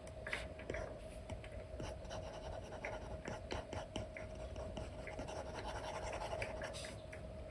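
Apple Pencil nib scratching and tapping on a paper-feel screen protector on an iPad: quick short strokes and many small taps, over a faint steady hum.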